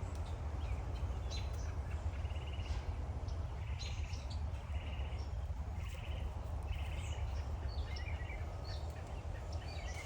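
Songbirds calling from trees: short buzzy notes repeated every second or two, mixed with high chips, over a steady low hum.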